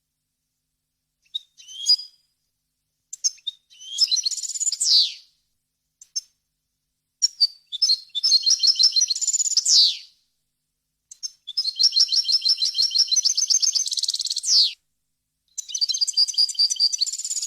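European goldfinch singing: a couple of short twittering calls, then three long rapid trilled phrases, each ending in a quick downward sweep, with short silent gaps between them.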